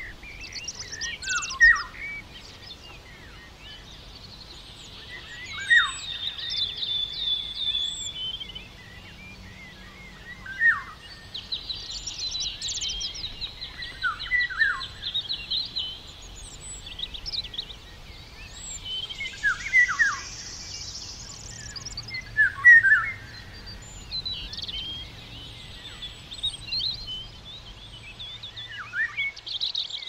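Small songbirds calling in a forest: short downward-sweeping calls every few seconds, with stretches of rapid high trilling, over a faint steady outdoor background.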